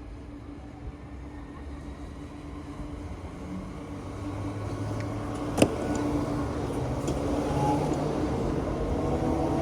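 A Southeastern electric multiple-unit train approaching, its running noise growing steadily louder. There is one sharp click about halfway through.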